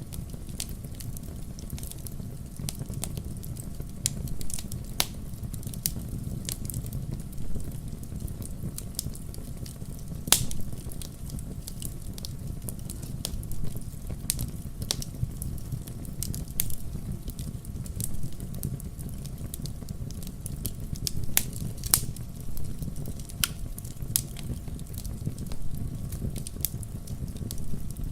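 Wood logs burning in a fireplace: a steady low rumble of flames with irregular sharp crackles and pops, a few louder pops among them.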